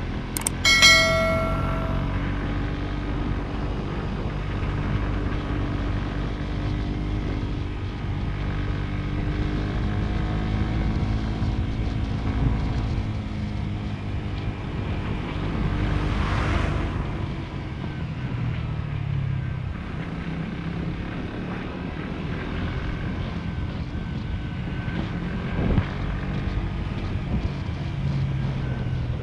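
Motorcycle engine running under way, its pitch rising and falling with the throttle, with a steady rush of ride noise. A short pitched tone sounds about a second in.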